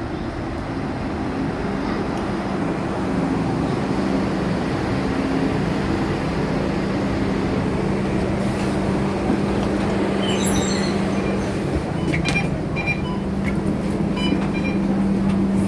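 Scania K230UB bus running with its five-cylinder diesel engine, a steady low hum building over the first few seconds as the bus gets under way, then holding. From about ten seconds in, light clicks and rattles join it.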